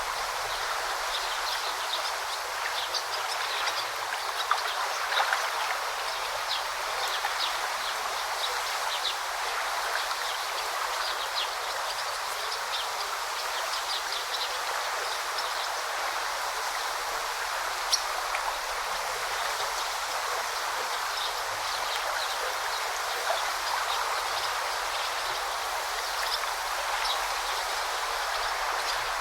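A shallow river or brook flowing in a steady rush, with many small splashes and trickles.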